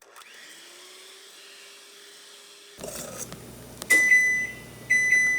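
Oven timer beeping to signal that the baking graham cookies are done: one long high beep about four seconds in, followed by shorter beeps, after a few quiet seconds with a faint hum.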